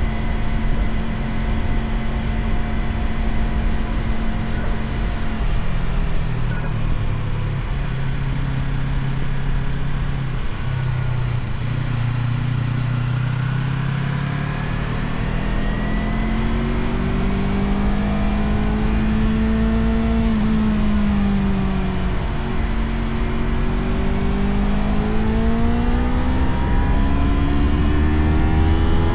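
Motorcycle engine running under way, its pitch dropping about six seconds in, then climbing and easing off a few times as the throttle changes and climbing again near the end. Wind rushes steadily over the microphone throughout.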